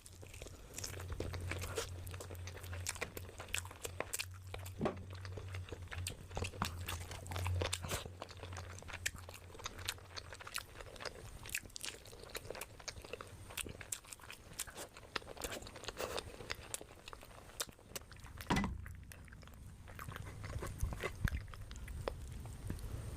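Close-miked eating: a person chewing and biting into biryani and chicken, with many irregular crunchy clicks and wet mouth sounds. A low hum runs under the first half and returns near the end.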